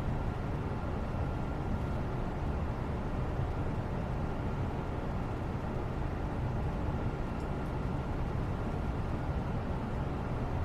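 Steady background noise, an even low rumbling hiss with its weight in the low end and no changes in level.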